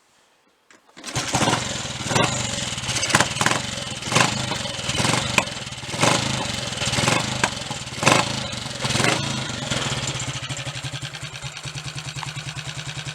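Triumph Tiger Cub single-cylinder four-stroke engine starting about a second in, revved in a string of short blips, then settling into a steady, even idle. It runs without misfiring now that the loose distributor is clamped tight.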